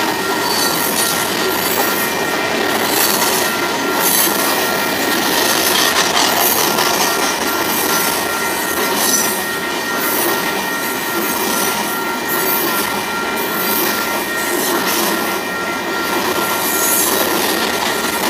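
Freight train of high-sided open-top hopper cars rolling past close by at speed: a loud, steady din of wheels on rail, with a thin steady squeal held over it.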